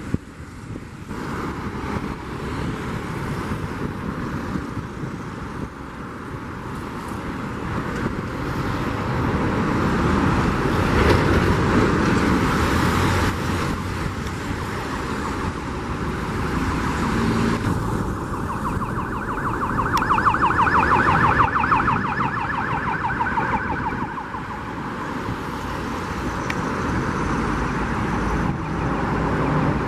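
Aircraft engine noise, swelling to its loudest about eleven seconds in. A whining, pulsing tone rides over it from about eighteen to twenty-four seconds in.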